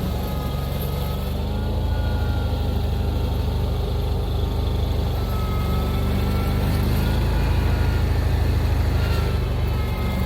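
A gasoline vehicle engine running steadily, its pitch wavering a little as it works.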